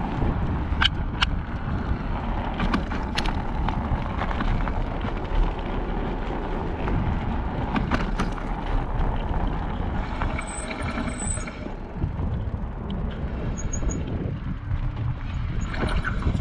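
Riding noise of an electric bike: steady wind buffeting on the microphone and tyre-on-road rumble, with a few sharp clicks and a brief high-pitched squeal about ten seconds in.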